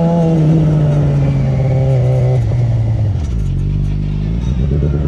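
Crosskart's motorcycle engine running at steady high revs, then dropping in pitch in two steps a little past halfway as the kart backs off and slows.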